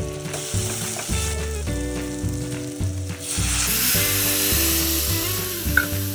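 Food sizzling in hot oil in a pan, the sizzle growing much louder about halfway through, over background music with a steady bass line.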